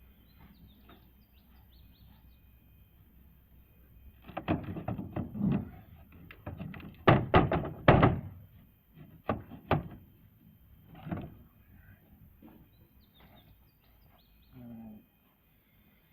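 A run of heavy thunks and knocks, loudest about seven to eight seconds in, with a few sharp single knocks after it and quieter stretches before and after.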